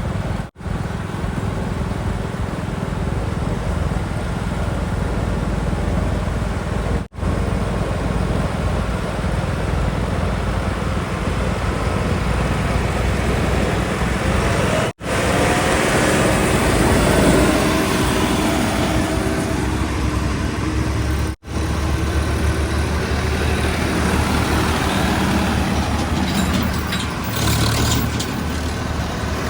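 Heavy vehicle engines running with low, rumbling noise, cut into several short clips with brief dropouts between them.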